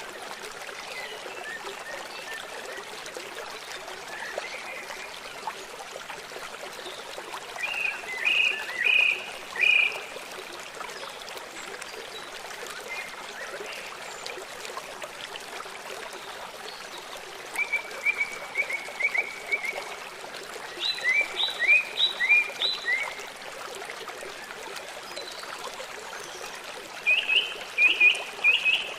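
A forest stream flows steadily, and songbirds sing short phrases of quick high chirps over it, about four times, a few seconds apart.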